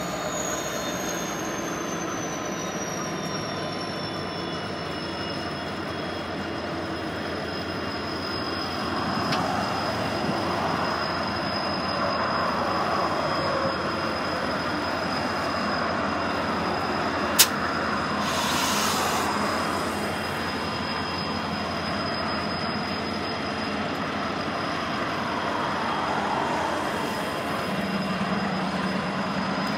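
CN diesel locomotives hauling a work train, passing slowly with steady engine rumble and rolling rail noise. A high, thin wheel squeal slides a little down in pitch over the first few seconds and then holds steady. A single sharp click is heard about halfway through.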